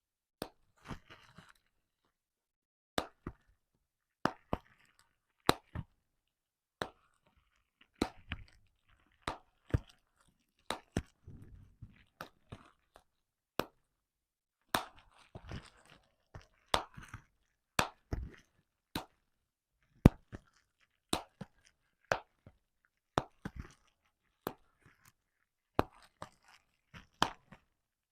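Bubble wrap popping: single sharp pops at an irregular pace, about one or two a second, with the plastic crinkling between some of them.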